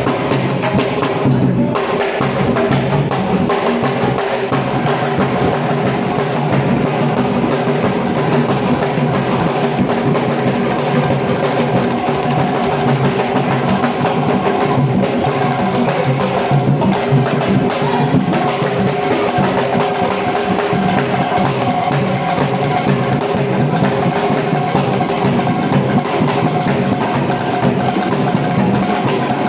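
Drum-led music with percussion playing steadily.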